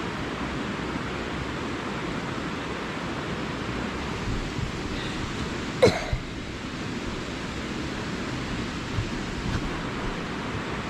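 Steady rushing noise of wind and rolling tyres while riding a mountain bike, with one short squeak falling in pitch about six seconds in.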